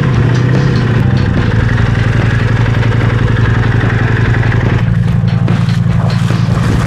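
Motorcycle engine running steadily, its tone shifting about two-thirds of the way in as the higher hiss drops away.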